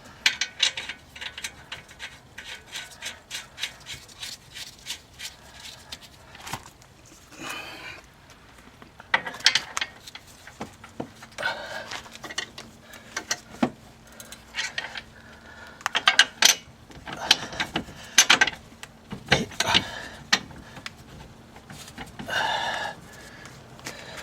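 Hand ratchet wrench clicking rapidly, about four clicks a second for the first several seconds, then in short bursts, as bolts are run in to fit a new front strut.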